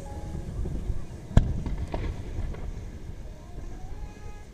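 Fireworks: one sharp bang about a second and a half in, then a fainter one half a second later, over a steady low rumble.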